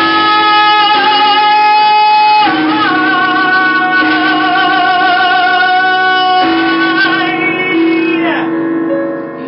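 A woman singing a bluesy jazz ballad in long held notes over instrumental accompaniment: three sustained notes, the last falling away near the end.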